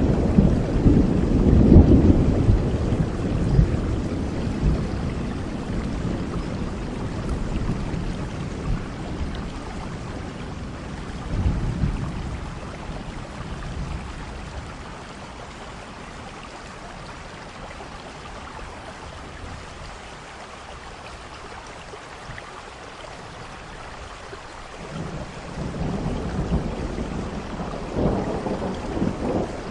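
Steady rain with rolling thunder. A low rumble dies away over the first several seconds and a brief one follows near the middle. After a stretch of rain alone, thunder rumbles again near the end.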